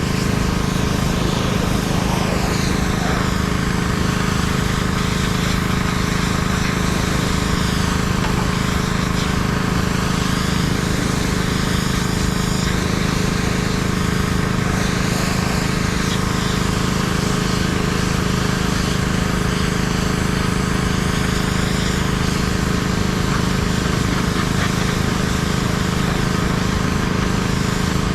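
Pressure washer running steadily: its engine hums under the constant hiss of the water spray, with the hiss slowly shifting as the wand moves.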